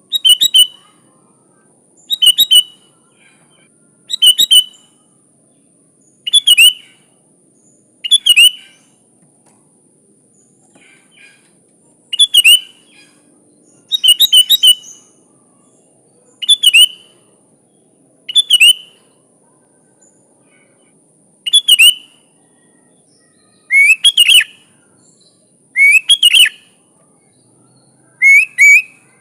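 Sooty-headed bulbul (kutilang) singing a short phrase of a few quick notes about every two seconds, over a faint steady high hiss.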